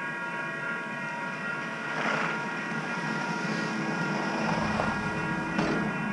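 Electric train running close by, with a steady whine of several held tones over rumbling rail noise that swells about two seconds in.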